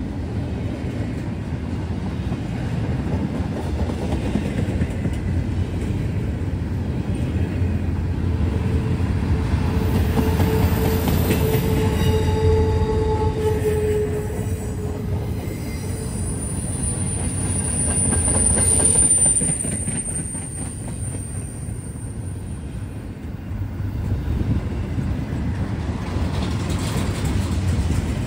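Norfolk Southern freight train cars rolling past with a steady rumble. A mid-pitched wheel squeal rises about nine seconds in and lasts several seconds, then a high-pitched wheel squeal follows past the middle and fades out a few seconds before the end.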